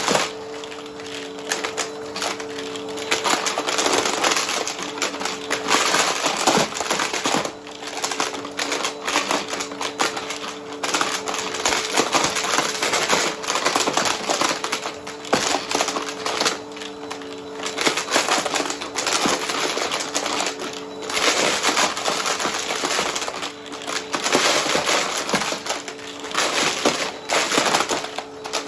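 Vacuum cleaner running with a steady motor hum while sucking up coins, which clatter and rattle rapidly through it.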